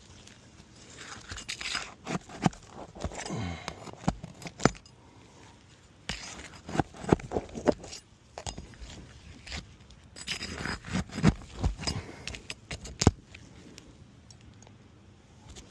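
Roof shingles being pried up and worked loose by hand: scraping, tearing and sharp clicks, coming in three bursts with quiet gaps between.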